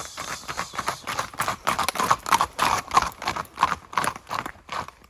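Horse hooves clip-clopping, a quick run of hoofbeats that grows louder through the middle and fades near the end.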